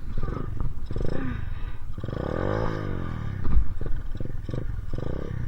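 Dirt bike engine revving hard while the bike labours in deep snow. It goes up in short revs, then climbs and falls in pitch in one long rev about two seconds in, then revs again, the sound of the rider gunning the throttle to push through.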